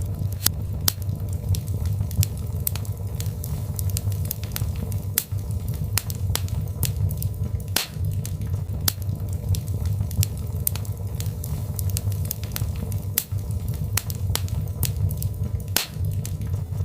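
Birch logs burning in a fireplace: irregular sharp crackles and pops, several a second and some louder than others, over a steady low rumble.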